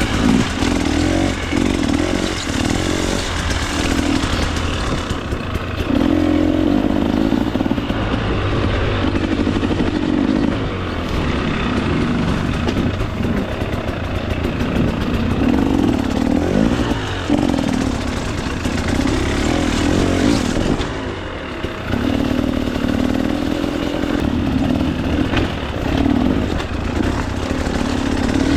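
A KTM 300 XC-W's two-stroke engine being ridden on the throttle, its note rising and falling over and over as the rider opens and closes it. The engine drops back briefly about three-quarters of the way through, then picks up again.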